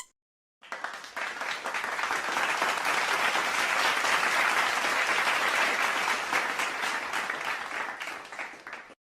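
Crowd applause: many hands clapping, swelling up over the first couple of seconds, holding, then fading out near the end.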